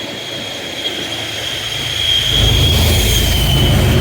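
MBTA bilevel commuter rail cars passing close by with a steady, high-pitched wheel squeal over the rail noise. A deeper rumble builds about halfway through as the diesel locomotive pushing at the rear draws near.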